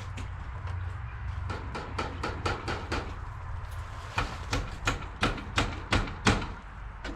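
Hammering on a roof: a run of sharp knocks, lighter at first, then heavier blows about three a second, over a steady low rumble.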